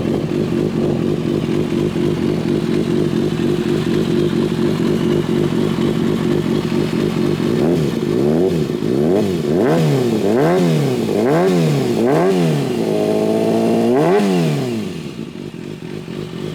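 2011 Kawasaki ZX6R's inline four-cylinder engine through an Arrow slip-on exhaust, idling steadily, then revved in about five quick throttle blips. A longer rev is held briefly before it drops back to idle near the end.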